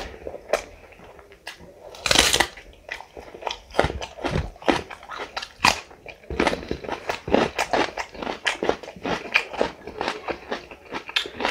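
Close-miked mouth sounds of a person eating curry and bread with his hand: wet chewing and lip smacks, with one louder, crunchier bite about two seconds in and steady chewing at about three chews a second in the second half.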